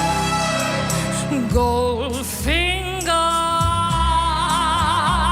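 Music with a singing voice: a quick upward slide, then long held notes with wide vibrato over a steady low accompaniment.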